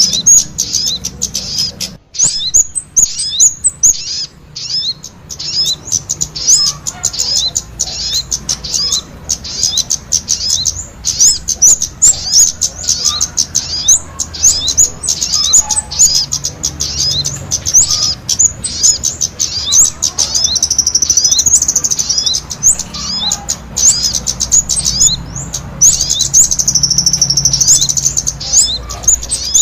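Kemade and sogon songbirds singing together in full song: a fast, unbroken stream of high, sharp chirps and trills, many notes a second, with longer warbling phrases now and then.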